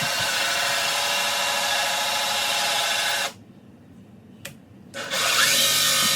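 Power drill turning a 6-inch bi-metal hole saw as it cuts, the motor whining steadily under the grinding of the teeth. The drill stops about halfway through, gives one short blip, and starts cutting again near the end.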